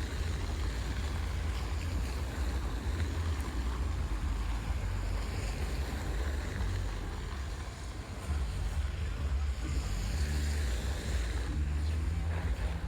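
Storm wind buffeting the microphone: a strong, uneven low rumble over a fainter steady hiss.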